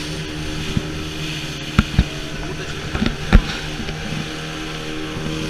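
Boat motor running at a steady drone, with a few sharp knocks around the middle.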